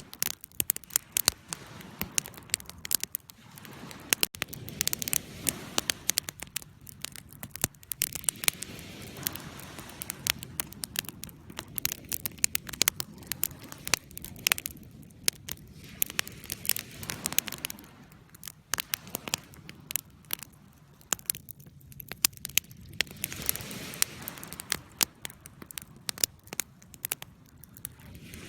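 Wood fire in a fireplace crackling, with frequent irregular sharp pops and snaps over a soft rushing that swells and fades.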